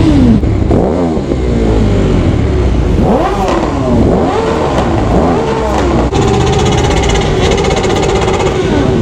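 Several motorcycle engines revving over one another, their pitch rising and falling in repeated blips; from about six seconds in, one engine holds a steady high rev.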